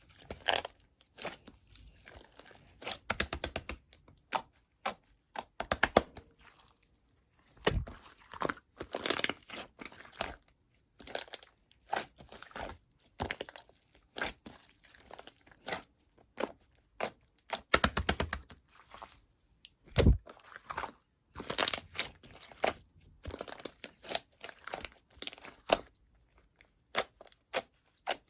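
Red whipped clay slime being pressed, squeezed and stretched by hand, giving irregular clusters of sharp crackles and crunches with short pauses between them. Its whipped texture has deflated.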